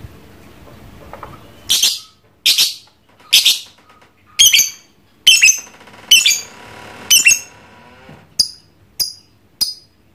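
Lovebird giving a series of loud, shrill squawking calls, about one a second, beginning a couple of seconds in. The first few are harsh. The later ones are sharper with falling notes, and the last three are short and clipped.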